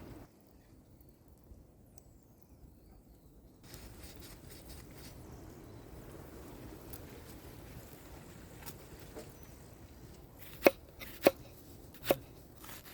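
Quiet rustling and handling noise, then four sharp chopping knocks near the end, spaced a little under a second apart.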